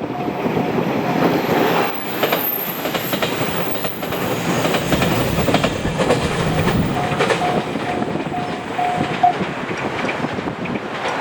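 Train passing over a railway level crossing, its wheels clattering on the rails, while the crossing's warning bell rings in steady pulses and stops near the end.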